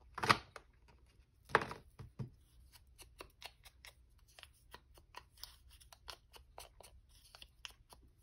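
Scissors cutting paper in a run of small, quick snips, with paper rustling. Two louder rustles of the paper come in the first two seconds.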